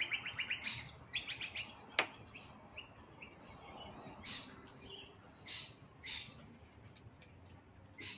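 Small birds chirping: a run of rapid trilled chirps at first, then scattered short high calls every second or so. A single sharp click about two seconds in.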